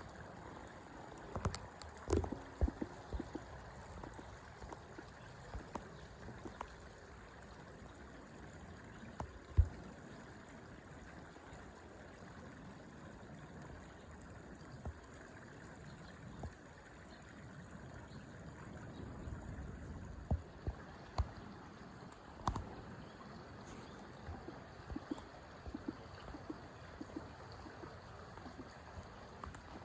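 Faint, steady flow of water in a small river, with scattered sharp clicks and knocks. The loudest knock comes about a third of the way in.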